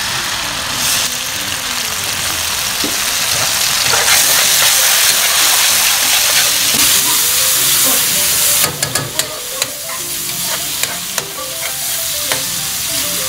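Onion and garlic sautéing in hot oil in a metal wok, sizzling as fish sauce is poured in. From about two-thirds through, a spatula scrapes and taps against the wok as the mix is stirred.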